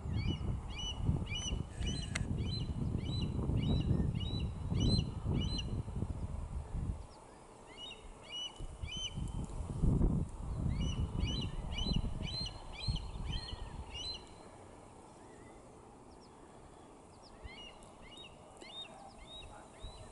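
A bird calling in bouts of short, high, hooked notes, about two a second, with pauses between bouts. Under it is a low, gusting rumble of wind on the microphone, strongest at the start and again about halfway through.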